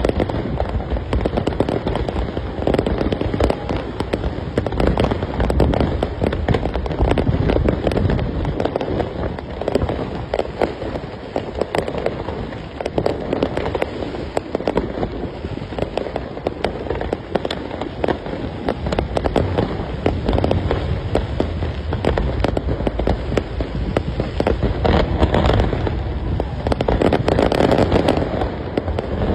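Aerial fireworks display: a continuous barrage of bangs and crackling, swelling louder several times.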